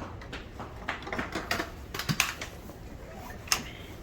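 A run of irregular light clicks and taps, like small hard objects knocking, with the sharpest ones about two seconds in and again about three and a half seconds in.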